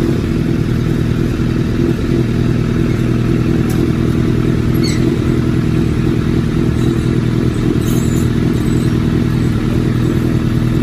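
Honda CBR1000 inline-four engine idling steadily through an aftermarket SC-Project exhaust.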